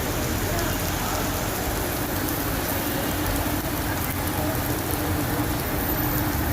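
Heavy rain coming down steadily, a torrential downpour growing heavier. A faint steady hum sits underneath it.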